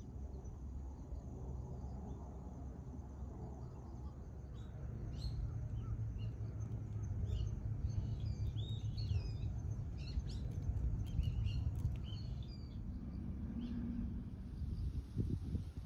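Small birds chirping, with many short, quick calls clustered in the middle, over a steady low rumble of outdoor background noise.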